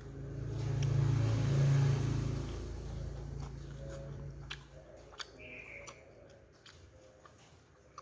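Close-up eating sounds of boiled cassava leaves in peanut sauce: wet chewing with scattered sharp mouth clicks and utensil taps. A low hum swells and fades over the first three seconds and is the loudest sound.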